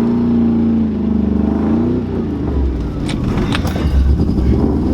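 Ford 4.6 V8 of a New Edge Mustang under heavy throttle. It holds a steady note for about two seconds, then turns rough and uneven, with a few sharp clicks a little past the middle. The engine is down cylinders and pushing water out of the exhaust after what looks like a blown head gasket and failed rod bearings.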